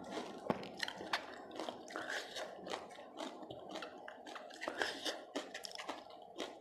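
Close-miked chewing and crunching of crisp pani puri, with many small crackles and clicks as the fragile puri shells are handled and dipped into the spiced water.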